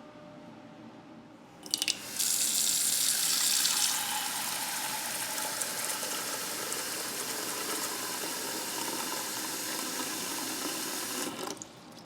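Water running from a tap into a small pot to fill it, starting with a couple of clicks about two seconds in, at its loudest for the first couple of seconds, then steady until it stops shortly before the end.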